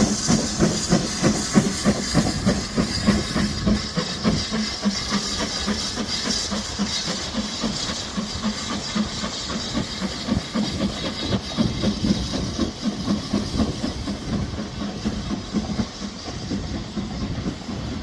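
Steam locomotive working with a quick, regular beat of exhaust chuffs and hissing steam, gradually fading toward the end as the train draws away.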